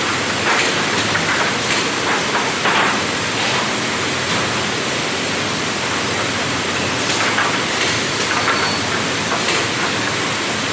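Steady, loud rushing noise of sawmill machinery, with a few faint light ticks.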